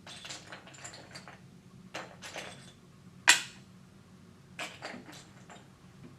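Small plastic LEGO pieces clicking and rattling as they are picked out and set down, with one sharp, louder click a little past halfway.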